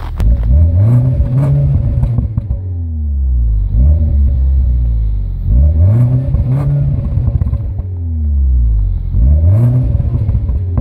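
Mini Countryman Cooper S ALL4's turbocharged four-cylinder engine being revved while standing: four rev-ups, each climbing then falling back to idle, heard at the tailpipes.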